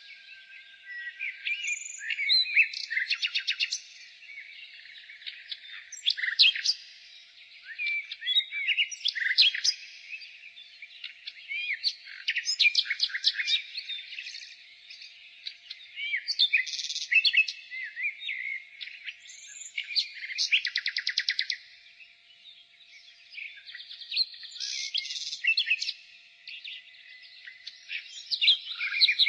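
Nightingale singing: a string of varied phrases of rapid repeated-note trills, whistles and chirps, each a second or two long, with short pauses between them.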